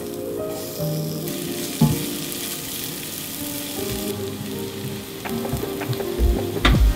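Sliced shallots sizzling in hot cooking oil in a wok as they are stir-fried with a silicone spatula, with a few sharp knocks of the spatula near the end. Light music plays underneath.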